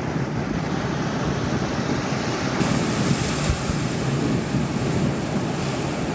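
Ocean surf washing on the shore, with wind buffeting the phone's microphone.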